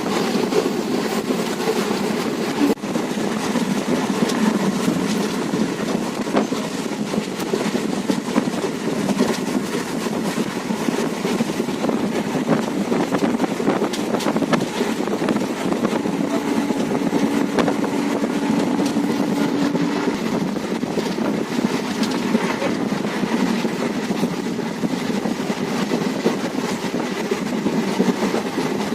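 Passenger train running along the track, heard from inside a coach: a steady rumble of wheels on rail with light rhythmic clicking. A faint steady hum rises over it for a few seconds past the middle.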